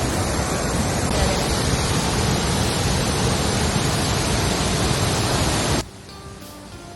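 Shifen Waterfall's water pouring, a loud steady rush that cuts off suddenly about six seconds in.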